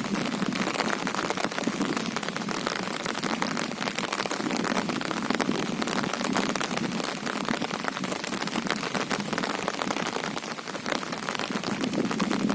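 Heavy monsoon rain falling steadily on a river and its surroundings: a dense patter of countless drops over a constant hiss.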